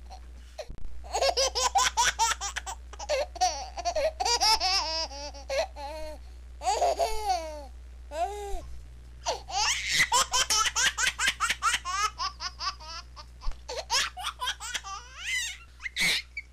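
High-pitched laughter in long fits of quick repeated pulses, with short breaks between the fits.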